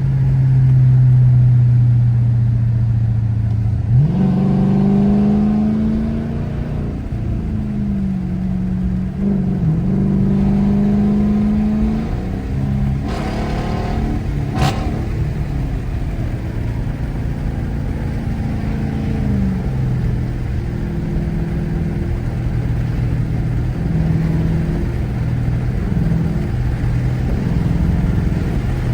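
Car engine running steadily, then revving up about four seconds in and accelerating, its pitch climbing and dropping through several gear changes before settling into steady cruising. A single sharp click about halfway through.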